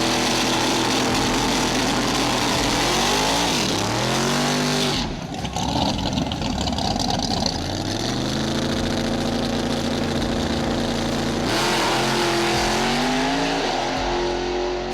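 Drag-racing Mustang engines revving hard at high load, the engine note climbing, holding and falling several times, with a sharp break about five seconds in.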